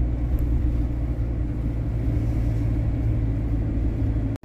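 Steady low road and engine rumble inside the cab of a panel-van camper driving along. It cuts out for an instant near the end.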